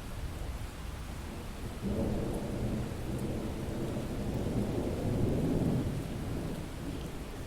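Thunderstorm: steady rain with a roll of thunder that breaks in about two seconds in, swells, and rumbles away near the end.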